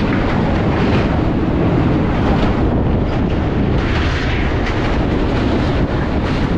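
MEMU local train running across a steel truss river bridge, heard from the open coach door: a loud, steady rumble with rattling from the wheels and girders, and wind on the microphone.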